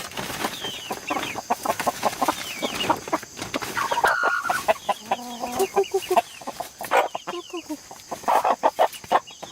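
Chickens clucking, with many short clicks and knocks throughout and a few longer pitched calls about halfway through.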